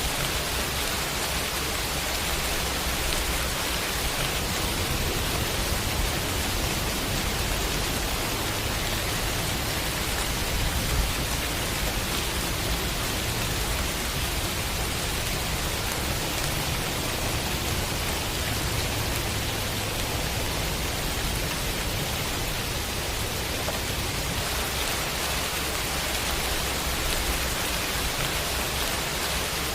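Heavy rain falling steadily in a dense, even hiss, with a low rumble underneath.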